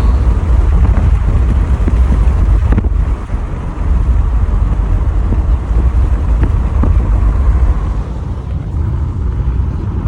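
Car driving, with a steady, loud rumble of engine and road noise and some wind buffeting.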